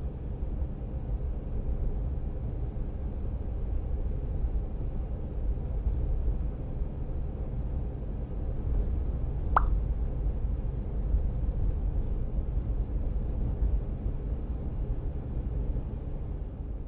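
Suzuki Every DA64V kei van on the move, heard from inside: a steady low rumble of road and engine noise, with one short sharp click about ten seconds in.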